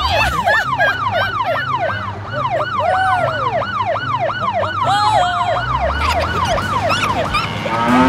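Police siren sound effect in a fast yelp, its pitch sweeping up and down about three times a second over a steady low engine hum, dying away near the end.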